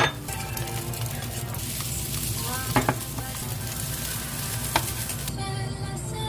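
Food sizzling in a frying pan, with a utensil knocking against the pan three times; the sizzle drops away about five seconds in. Background music plays underneath.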